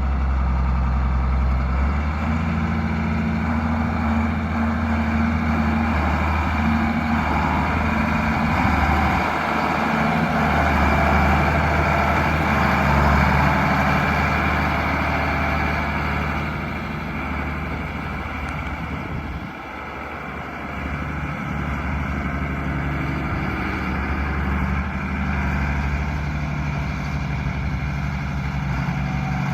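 Case IH 7120 Magnum tractor's six-cylinder diesel engine running steadily, with a brief dip in loudness about two-thirds of the way through.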